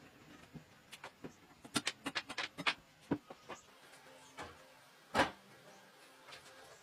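Scattered light taps and clicks of workshop handling: a quick run of them about two seconds in and a single sharper knock about five seconds in.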